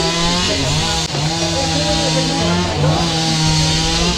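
Two-stroke chainsaw running at high revs, its pitch dipping briefly and recovering a few times as it works.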